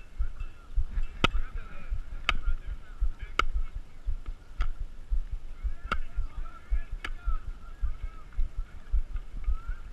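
Six sharp claps or knocks about a second apart over low, constant thumping and faint distant voices.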